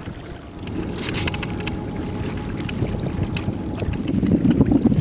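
Kayak on the water with wind on the microphone, light water splashes and small knocks against the hull, the rushing noise growing louder near the end.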